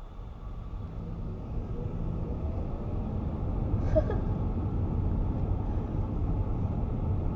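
Car engine and road rumble inside the cabin, growing steadily louder as the car picks up speed, with a brief higher sound about four seconds in.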